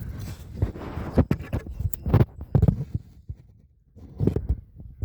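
Handling noise: irregular low thumps and knocks with a few sharper clicks, from hands working on car interior parts.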